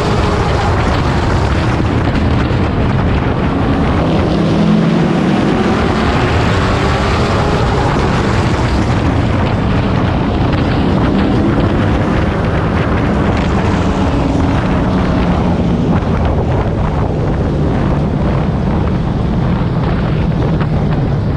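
Pro truck race engine at racing speed, heard on board, its pitch dropping and climbing again as the truck lifts and gets back on the throttle through the turns, with heavy wind and road noise.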